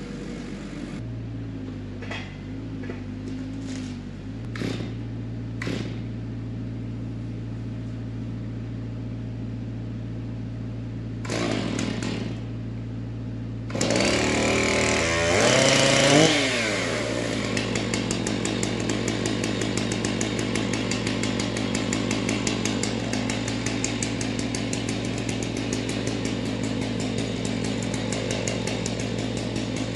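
A low engine hum with a few knocks, then about halfway through a chainsaw starts, revs up to a peak and settles into a steady high-speed run, cutting into a dead Douglas fir.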